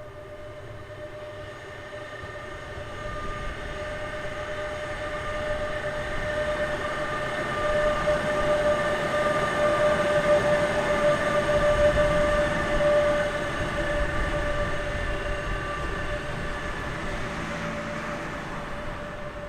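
A train passing, growing louder to a peak about halfway through and then fading, with a steady high-pitched whine over the rumble of the wheels.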